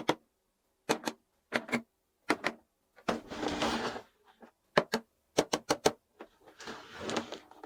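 Small plastic toy pieces and packaging being handled during an unboxing: sharp clicks and clacks, mostly in pairs and short runs, with two longer stretches of rustling or scraping.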